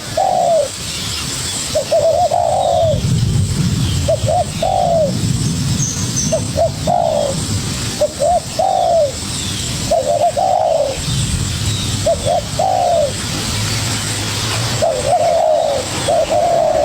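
Spotted doves cooing over and over, a short arched phrase every second or two, with two birds' phrases overlapping near the end: a young wild male answering a decoy dove in a territorial cooing duel.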